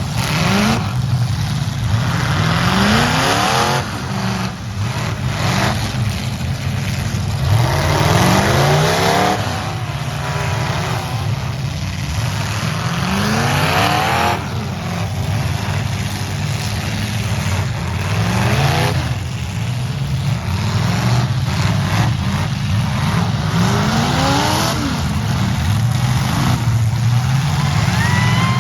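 Demolition derby truck engines running hard and revving, the pitch climbing again and again, about every five seconds, over a loud, noisy background.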